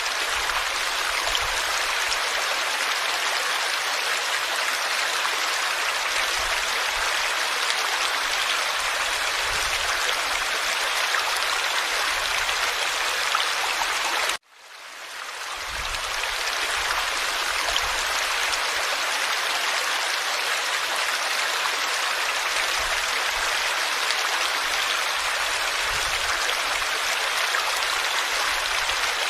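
Forest stream flowing over stones, a steady, dense babble of running water. About halfway through it cuts off suddenly and fades back in over a couple of seconds.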